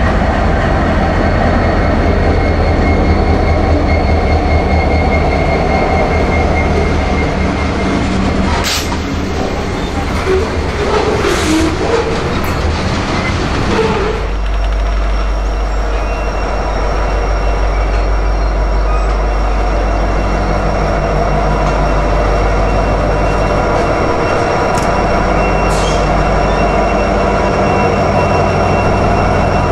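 Union Pacific diesel freight locomotives passing close by with their engines running. About halfway through, this changes to covered hopper cars rolling past, wheels on the rails, with a faint steady high squeal. Near the end, another locomotive's engine comes in again.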